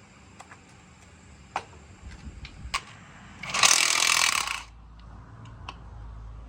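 Scattered clicks and knocks of tools being handled, with a loud hiss lasting about a second midway.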